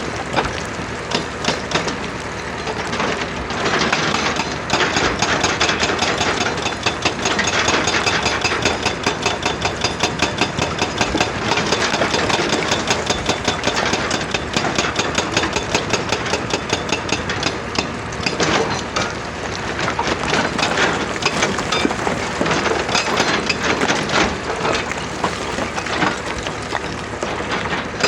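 Excavator-mounted hydraulic rock breaker hammering rock in rapid, repeated blows over the excavator's running engine, with brief lulls now and then.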